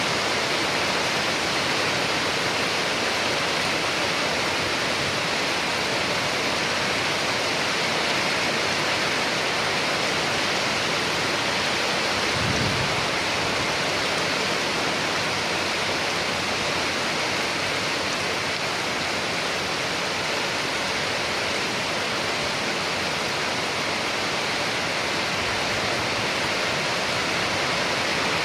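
Steady rain falling, an even hiss of water that holds constant throughout, with one brief low thump about halfway through.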